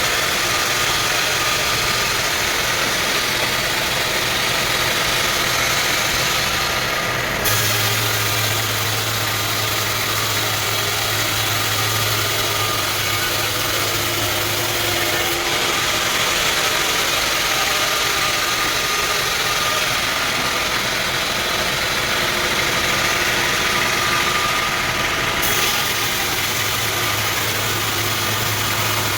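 Sawmill machinery running steadily: an engine-driven saw with a constant hiss and a low hum. The sound changes abruptly about a third of the way in, again about halfway, and again near the end.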